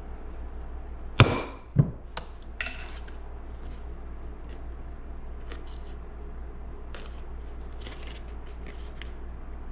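Hammer striking a hollow punch twice, about half a second apart, punching bolt holes through gasket paper, followed by a smaller click, a brief rustle of the paper and faint light clicks as the punch and gasket are handled.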